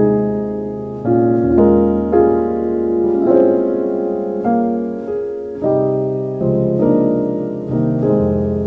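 Slow, gentle solo piano music: soft notes and chords struck about once a second, each left to ring and fade.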